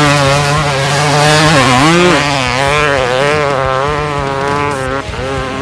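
Dirt bike engine running hard, its pitch wavering up and down and dipping then climbing again about two seconds in.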